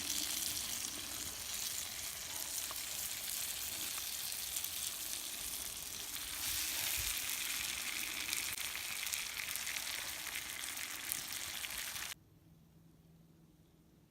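Tomatoes, eggplant and parboiled potatoes sizzling in a pan over a campfire, a steady frying hiss with fine crackles. It cuts off suddenly about twelve seconds in.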